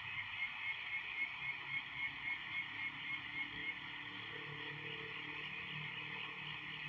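A bird calling at night: a rapid series of about a dozen short, high notes, about four a second, that stops about halfway through, over a steady hiss.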